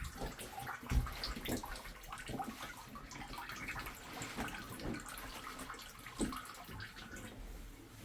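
Water running at a low flow from a tub-and-shower valve with a newly fitted Moen cartridge, as the valve is tested. Scattered knocks and clicks of handling come over the flow, the loudest about a second in.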